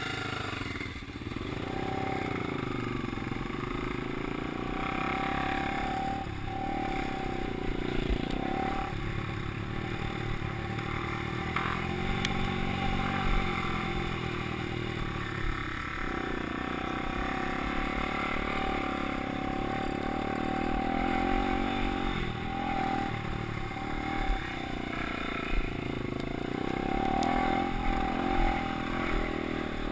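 Motocross bike engine running as it is ridden, its pitch rising and falling with the throttle, with a few sharp knocks along the way.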